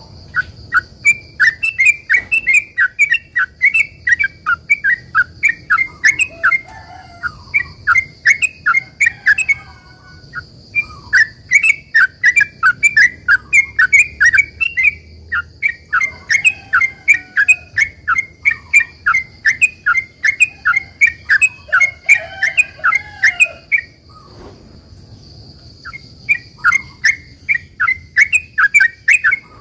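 Trucukan (yellow-vented bulbul) singing a long, rapid run of sharp, bubbling notes at about four a second. The phrases break off briefly about a third of the way in and again near the end before starting up again. A faint steady high tone runs underneath.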